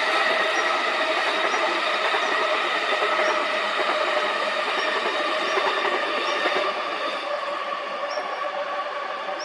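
A train running past, a steady noise with several held tones that fades slowly over the last few seconds.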